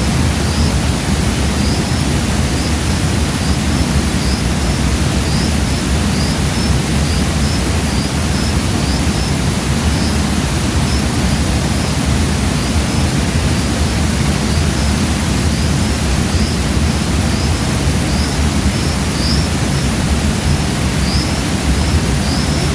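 Steady rush of water from a mountain river and waterfall, loud and even, with short faint high chirps repeating about once a second over it.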